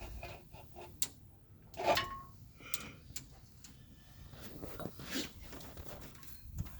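Scattered metal clinks and knocks as the engine and its hoist rigging are shifted into the engine bay, the loudest a clank about two seconds in that rings briefly.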